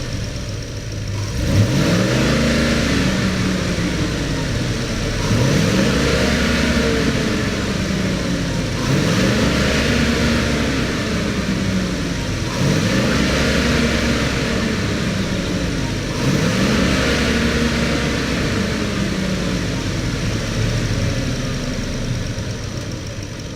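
2013 Ford F-350 Super Duty pickup engine idling and being revved about five times, each rev rising in pitch and falling back to idle, every three to four seconds.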